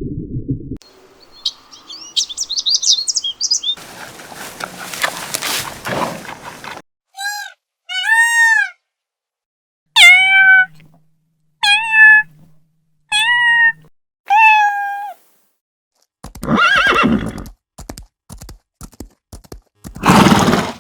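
A run of animal calls cut one after another: high bird-like chirps, then a noisy stretch, then six short pitched calls that rise and fall in an arch, and a rougher call near the end.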